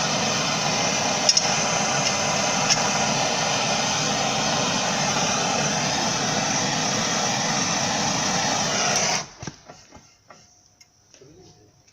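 Gas blowtorch flame burning with a steady hiss, heating a seized suspension-arm bolt to free it, then shut off suddenly about nine seconds in. A few faint metal clinks follow.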